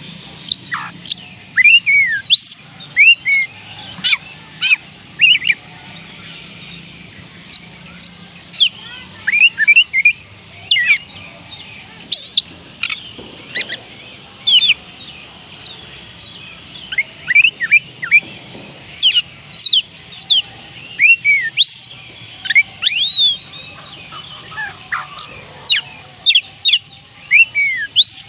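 Oriental magpie robin singing: a long run of short, clear whistled notes that glide up and down in pitch, coming in quick bursts with brief pauses.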